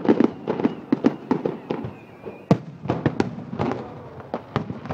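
Aerial fireworks shells bursting in a rapid, irregular series of sharp bangs and pops, thickest near the start, with the loudest bang about two and a half seconds in.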